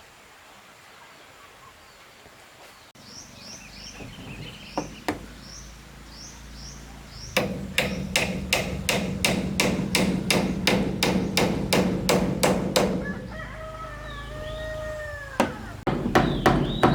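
Hammer blows on wood in a steady run of about four strikes a second, lasting several seconds, then a few more blows near the end. Between them a rooster crows once, and small birds chirp faintly a few seconds in.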